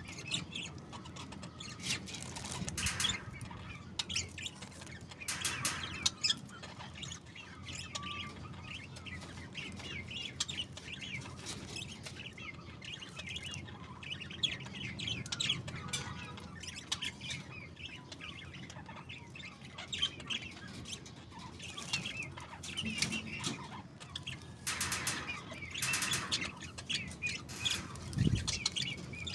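A flock of budgerigars chattering and warbling nonstop, with several louder bursts of wing flapping.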